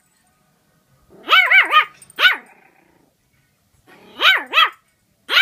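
A dog barking at her own reflection in a mirror: short, high barks that rise and fall in pitch, coming in quick bursts of one to three.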